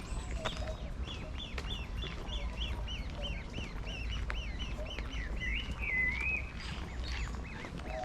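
A bird calling in a fast repeated series, about three short calls a second, ending near the end in a longer wavering call. Wind rumbles low on the microphone throughout.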